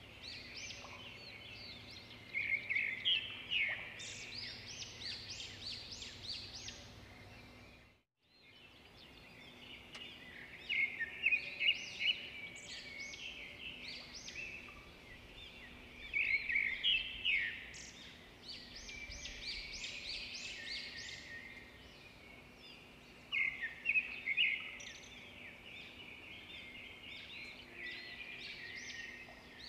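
Birds chirping and twittering in quick runs of short chirps, with louder bursts every few seconds over a faint steady hum. The sound drops out for a moment about eight seconds in.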